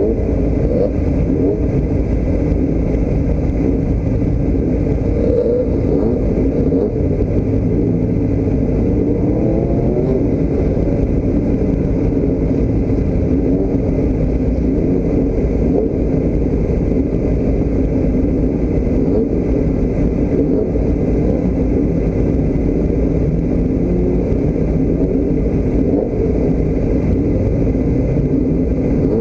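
A motor vehicle's engine running continuously, its pitch rising and falling a little now and then, as when driving.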